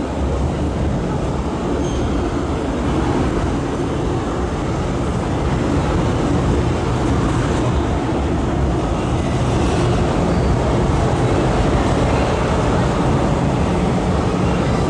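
MTR M-Train subway train running through an underground station platform without stopping: a loud, steady rumble of wheels and motors that grows a little louder about halfway through.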